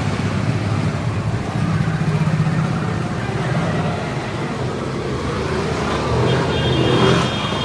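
Yamaha R15 V3's single-cylinder engine running steadily, with a thin high tone near the end.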